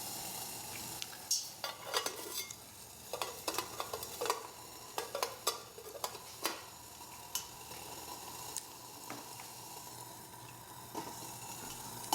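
Small DIY wood-gas pellet stove burning, with a steady hiss and scattered sharp crackles and ticks; a faint steady whine comes in about halfway.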